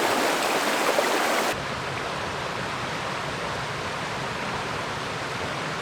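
Fast creek water rushing and splashing over stones, a steady noise. The sound changes abruptly about a second and a half in, duller and with more low rumble.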